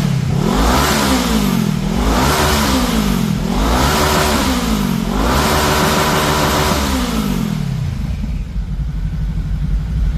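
Honda CBR500R's parallel-twin engine revving through an Akrapovic slip-on exhaust. It gives a string of quick throttle blips, about one a second, then one longer rev held for a couple of seconds before it drops back to idle.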